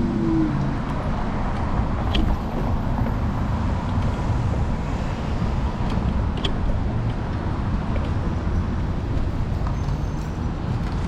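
City street traffic noise with steady road and wind rumble, heard from a moving electric scooter, and a couple of sharp clicks about two seconds and six and a half seconds in.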